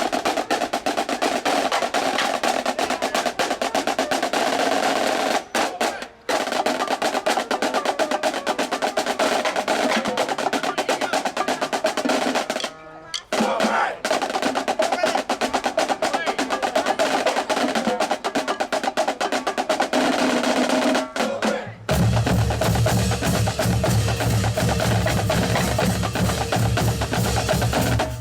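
Marching band drum line playing a snare cadence of rapid strokes and rolls, broken by a few short pauses. Bass drums join in strongly near the end.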